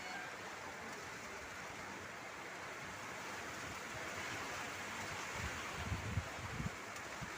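Steady hiss of wind in a thunderstorm between thunderclaps, with a few low gusts buffeting the microphone from about five seconds in.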